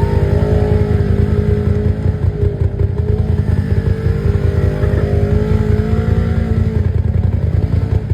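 Dirt bike engine running at a steady, held speed, its note changing little.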